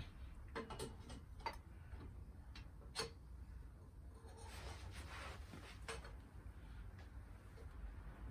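Scattered light clinks and taps of GS750 exhaust header pipes, their brackets and bolts being handled and offered up to the engine, seven or so, the loudest about three seconds in.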